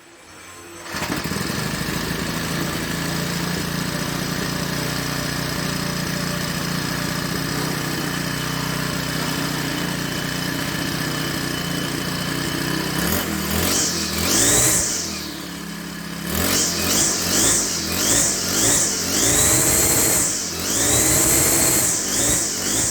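String trimmer engine fitted with a homemade stainless steel exhaust muffler, starting up about a second in and running at a steady idle. Around thirteen seconds in it is revved up and drops back, then it is blipped in quick repeated revs, about one a second.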